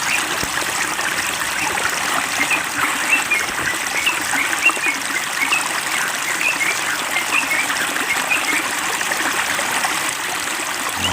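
Water running and trickling steadily, splashing as a water-therapy spray or flow for a caged bird, with many short high chirps scattered through it.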